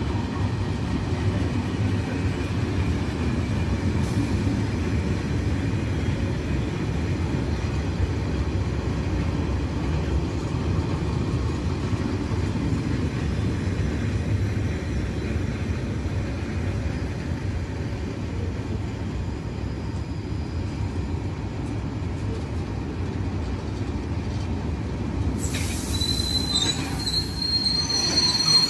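A train running past on the rails with a steady rumble of wheels. Near the end, thin high-pitched squealing tones from the wheels come in.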